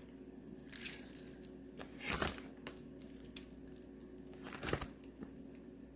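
A plastic bag crinkling in short bursts as small hard wax melt pieces are handled and dropped in, with a few light clicks; the loudest rustle comes about two seconds in, another near five seconds.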